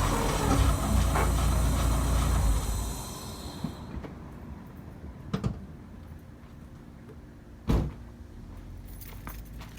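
Car engine running with a steady low rumble, switched off about three seconds in. Afterwards a couple of light knocks, then a single sharp thump of a car door shutting.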